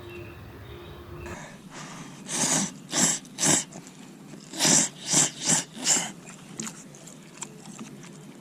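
Seven short, sharp puffs of breath, a group of three and then a group of four.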